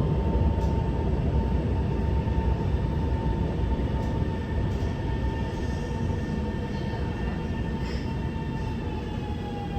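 Interior of a CRRC Qingdao Sifang A-type metro electric train under way: a running rumble with a steady electric whine from the traction motors. The whine slides slowly lower in pitch and the rumble eases in the second half, as the train slows.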